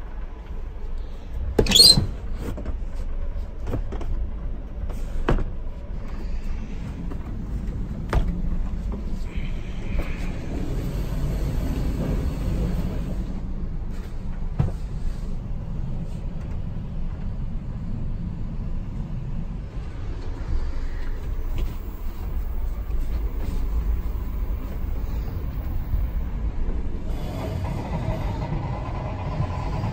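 Steady low rumble of a passenger train carriage running on the rails, heard inside the compartment. Scattered sharp knocks and clicks come over it, the loudest about two seconds in.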